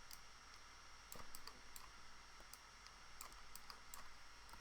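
Faint, irregular clicking of a computer mouse and keyboard while a drawing is being selected and edited, over a low steady hiss.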